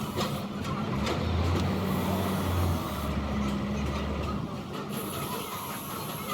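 A low, steady mechanical drone from a running machine. It comes in about a second in and drops away at about four and a half seconds, over general workshop noise.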